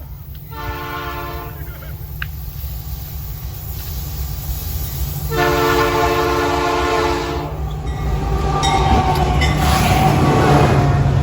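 A freight locomotive's air horn sounds two blasts, a short one just after the start and a longer one of about two seconds midway, over the steady rumble of an approaching freight train hauled by AC44i and C30 diesel-electric locomotives. Near the end the train passes at speed, with louder engine noise and wheels clacking on the rails.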